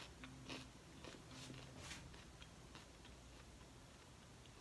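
Near silence with faint crunches of dried, seasoned queen weaver ants being chewed: a few soft clicks in the first couple of seconds that thin out.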